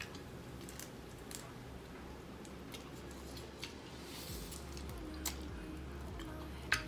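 Close-up eating sounds of chicken wings eaten by hand: a few sharp lip smacks and wet clicks of chewing and pulling meat off the bone, spaced a second or more apart, over a low steady hum.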